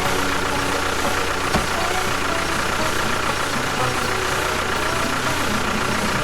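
A motor running steadily with a dense, even noise and a faint steady whine.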